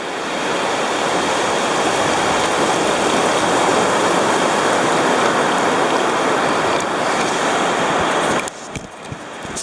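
Sea water rushing and fizzing across a jagged rock shelf as a wave washes in. The steady rush builds over the first second and cuts off fairly suddenly near the end, leaving a few faint clicks.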